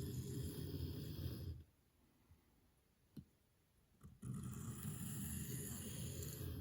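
Pocketknife Wharncliffe blade drawn across a sharpening stone in two long scraping passes. The first ends about a second and a half in, and the second starts a little after four seconds and runs on. A faint click falls between them. The passes are worked to clean up the edge's burr.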